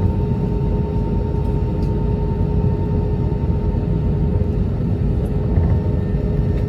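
Steady low rumble inside an Airbus A320neo's cabin as the jet taxis on one engine, with a constant hum running through it.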